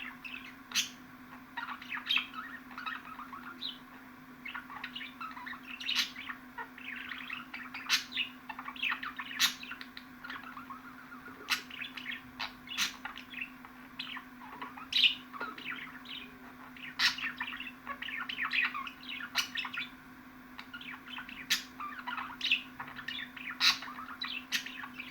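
Budgerigars chattering and warbling, a dense run of short chirps broken by frequent sharp higher calls, over a steady low hum.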